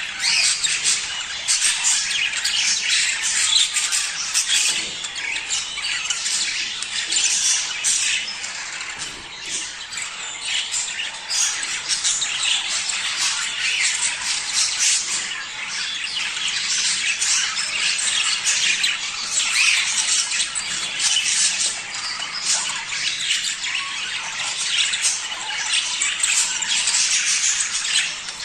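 A flock of budgerigars chattering and squawking in a dense, continuous stream of high chirps and warbles.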